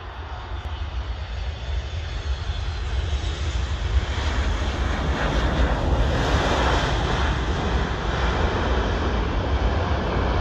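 Boeing 747-400 freighter's four jet engines on landing. The noise swells over the first few seconds as the aircraft comes close, then holds loud and steady.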